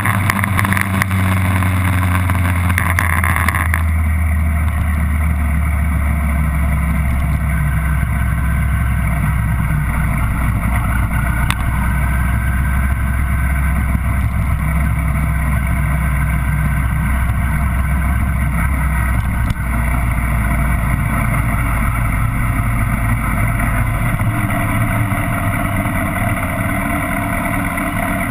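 Vehicle engine running at low, steady revs, easing off further about 24 seconds in.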